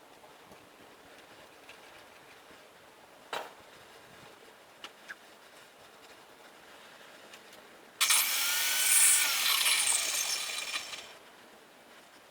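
A single knock, then a few seconds later a power tool working metal in one burst of about three seconds, its pitch dipping and rising as it cuts.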